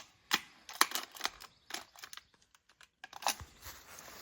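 A run of sharp, irregular clicks and taps, about a dozen in the first two seconds, then a short pause and one more click; close handling noise.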